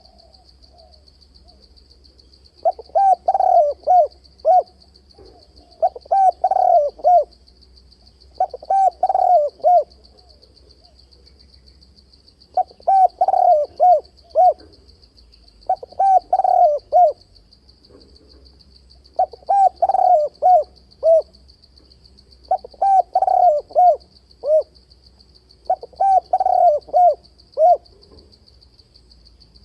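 A spotted dove cooing over and over: about eight phrases of several quick notes, each about a second long, repeating roughly every three seconds. A steady, high-pitched pulsing buzz runs underneath.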